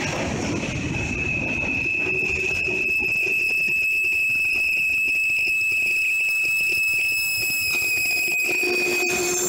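Passenger train passing close by, its cars rumbling and clattering on the rails, with a steady high-pitched squeal of steel wheels on the track running through most of it.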